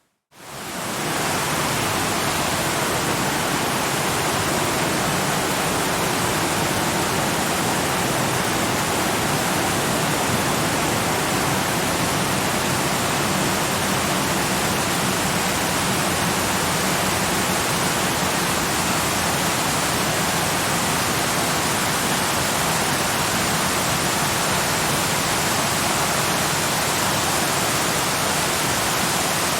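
Steady, even rush of a waterfall. After a moment of silence at the very start, it fades in within about a second and then holds unchanged.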